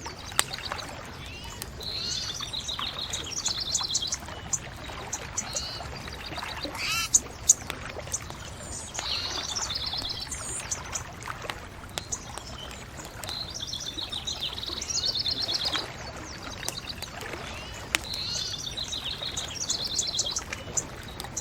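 Songbirds singing short, fast-trilled phrases that repeat every few seconds, over a steady low rush, with scattered sharp pops and crackles from a wood fire.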